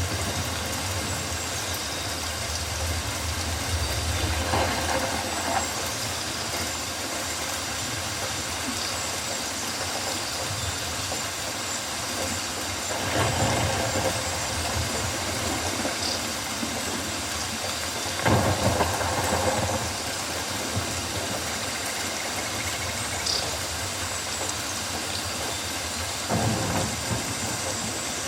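Rainforest ambience of steady rain, with a few louder swells now and then.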